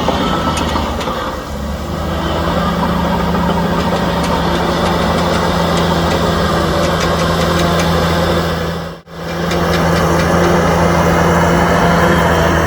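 Heavy diesel engine of earthmoving equipment running steadily at a low, even hum. The sound drops out for a moment about nine seconds in.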